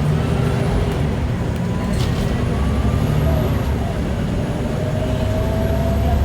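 Scania L94IA articulated bus's diesel engine running steadily. From about halfway a faint whine rises slowly in pitch, and there is a short click about two seconds in.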